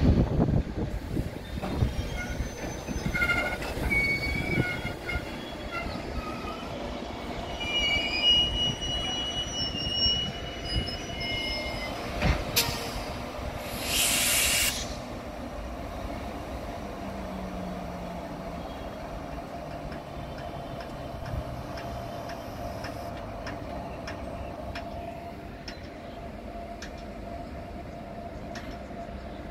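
Container freight train rolling past on the rails, its wagon wheels squealing in high whines through the first several seconds. A sharp clank comes about 12 seconds in, followed by a brief rush of noise. The train then runs on more steadily and quieter, with a faint hum.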